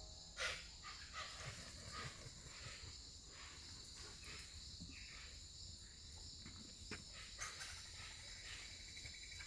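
Faint natural ambience: a steady high-pitched insect drone with scattered soft clicks and short chirps, and one sharper click about half a second in.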